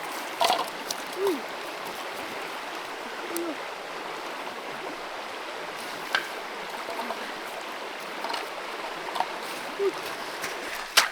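Creek water running steadily, with scattered small splashes and clicks, the sharpest near the end. A few short, low, arched calls sound now and then over the water.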